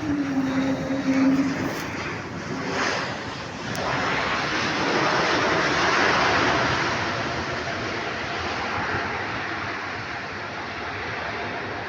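Jet airliner's engines on arrival: a broad rushing roar that swells about four seconds in, then holds steady and slowly eases.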